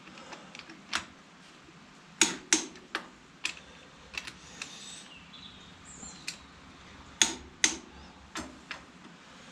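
Sharp metallic clicks and knocks of a torque wrench and socket being worked on the final drive bolts of a David Brown 996 tractor, set to 75 foot-pounds. About ten irregular clicks, the loudest coming as two close pairs a little over two seconds in and about seven seconds in.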